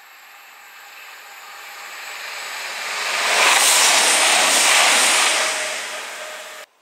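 CrossCountry Voyager diesel multiple unit running through the station without stopping. It makes a rushing wheel and air noise that builds to a peak a little past halfway and starts to fade, then cuts off suddenly near the end.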